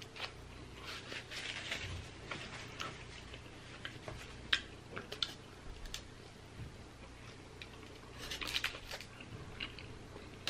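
Close-miked eating sounds: a foil-wrapped chicken burrito being bitten into and chewed, with soft crinkles of the foil and paper napkin and scattered quiet mouth clicks and smacks. A denser run of crackles comes near the end.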